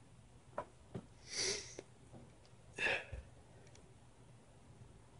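A person sniffing twice, short noisy breaths about a second and a half apart, with a few faint clicks just before.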